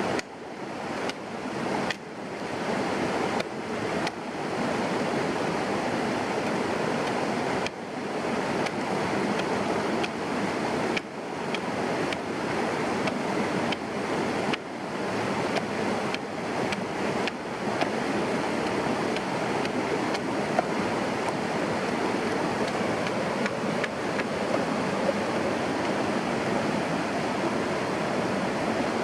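Steady rushing, water-like noise. In the first half it is broken by a string of sudden dips, each swelling quickly back to full level.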